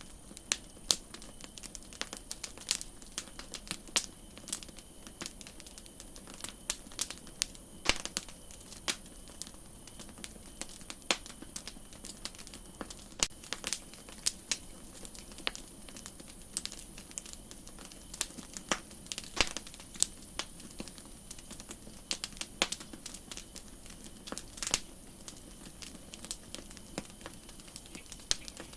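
Campfire crackling: irregular sharp pops and snaps of burning wood over a soft steady hiss, with a faint high hiss joining about halfway in.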